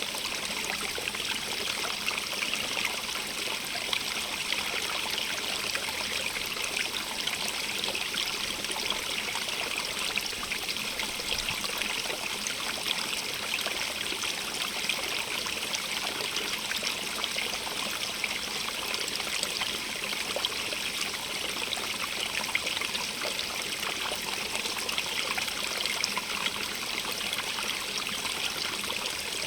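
Small stream of running water trickling and splashing steadily, a constant hiss-like rush with fine bubbling detail.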